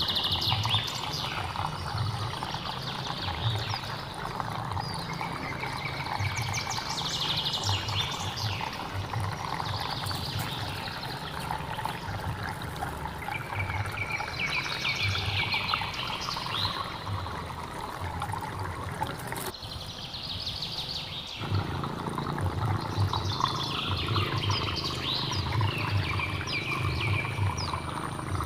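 Flowing hill-stream water with a songbird singing short, repeated phrases every few seconds over it. The water sound briefly cuts out about two-thirds of the way through, then resumes.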